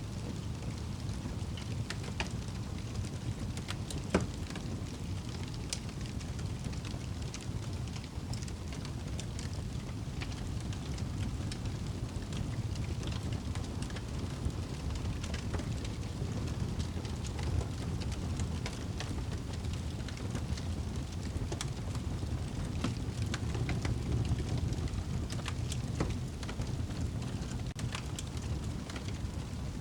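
Wood fire burning in a fireplace: a steady low rumble of flames with scattered crackles and pops, one sharper pop about four seconds in.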